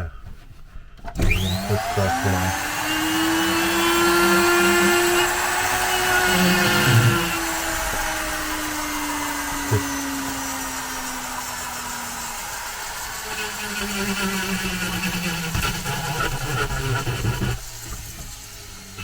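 Electric power carving tool running and cutting into wood. It starts about a second in, and its whine sinks slowly in pitch over several seconds as it bears on the wood, then stops near the end.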